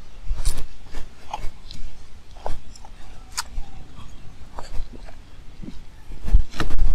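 Footsteps crunching irregularly along a trail, with heavy low rumbles on the microphone about half a second in and again near the end.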